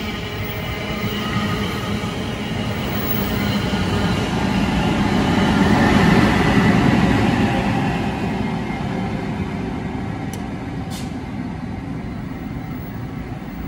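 A train passing on the line, its rumble swelling to a peak about six seconds in and then fading away, with two short high hisses near the end.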